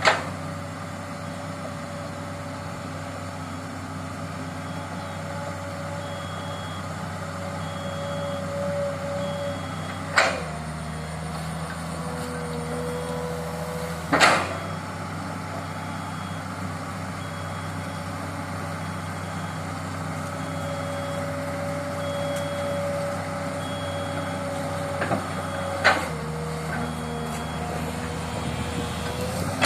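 Excavator's diesel engine running steadily as it tracks through swamp mud, with a travel alarm beeping about once a second. A few sharp knocks stand out, and the engine note shifts under load twice.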